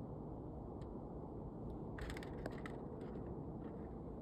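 Steady low wind noise outdoors in a snowstorm, with a few faint short crackles and scrapes about two seconds in.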